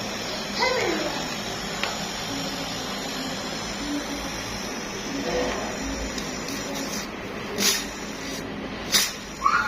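Steady hiss of gas flowing, with a few sharp knocks in the last couple of seconds.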